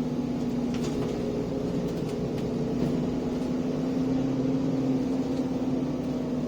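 ADL Enviro 400 double-decker bus running under way, its engine and drivetrain giving a steady drone that holds one pitch.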